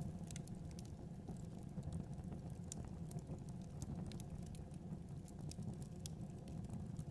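Wood fire burning in a fireplace: a steady low rumble of flames with scattered crackles and pops.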